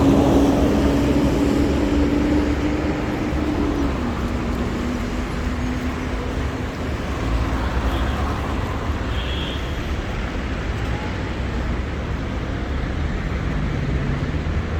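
Road traffic on a city street: a steady rumble of passing vehicles, with one engine's held hum dropping in pitch about four seconds in as it goes past.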